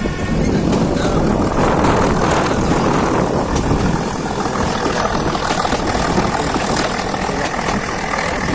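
A train in motion, heard on board: a steady running rumble and rattle with a few scattered clicks.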